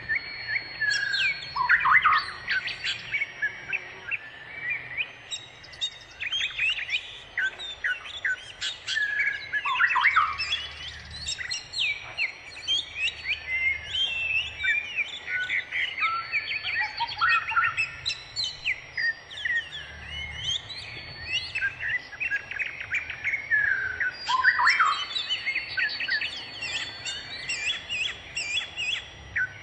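Songbirds chirping and calling in quick, overlapping phrases of short chirps and falling notes, with no let-up.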